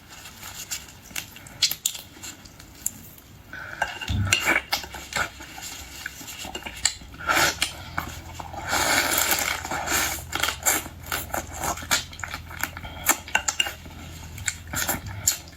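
Cutlery and dishes clinking and tapping in a run of sharp, irregular clicks, with a longer scraping, rustling stretch about nine seconds in. A low steady hum sets in about four seconds in.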